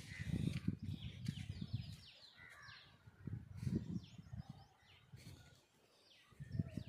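Birds chirping in short, quick downward-sliding notes, several groups of them, over bursts of low rumble.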